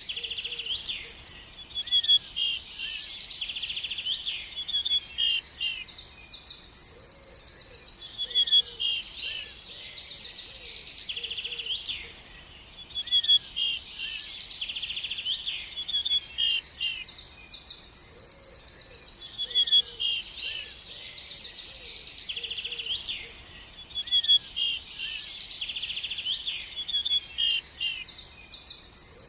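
Several songbirds singing and chirping, with fast high trills and quick runs of short chirps. The same stretch of song comes round again about every eleven seconds, each time after a brief lull.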